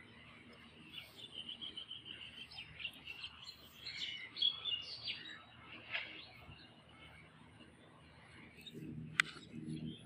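Small birds chirping and twittering, a busy run of short high notes through the first half, then thinning out. A single sharp click near the end.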